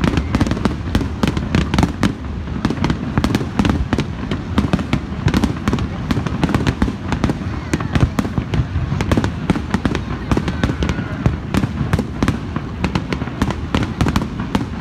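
Aerial fireworks display: a continuous barrage of bangs and crackles in quick succession over a low rumble.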